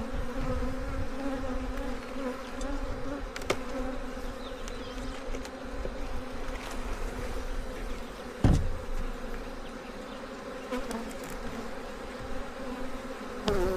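Honey bees buzzing steadily around an opened hive during a frame inspection. There is a single sharp knock a little past the middle.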